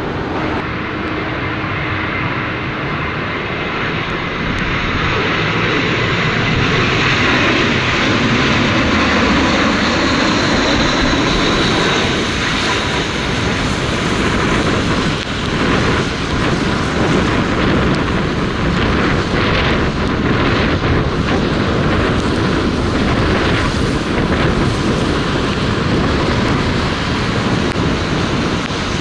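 Jet airliner on landing approach flying past, its engine noise swelling to a peak about ten seconds in, with a faint high whine, then staying loud.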